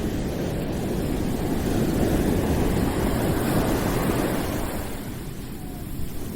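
Deep, rushing background noise with most of its weight in the low end, swelling for a couple of seconds and then easing off.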